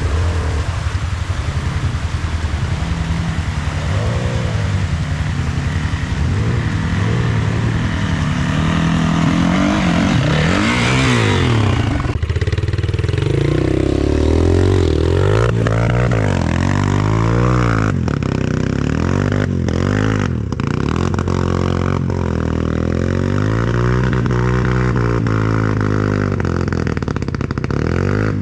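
Off-road vehicle engine running under load on a trail ride, revving up and down again and again as the throttle is worked.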